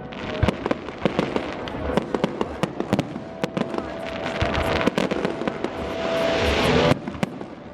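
Aerial fireworks going off: many sharp bangs and crackles in quick succession, with a hissing that swells over a second or so and cuts off suddenly near the end.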